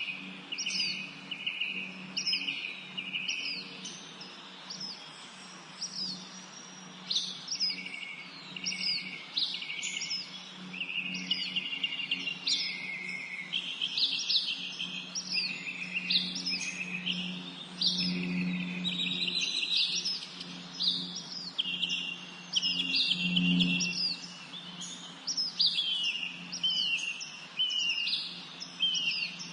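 A chorus of songbirds singing over one another, with quick downward-sliding whistled notes repeated every second or so and buzzy trills between them. A steady low hum runs underneath.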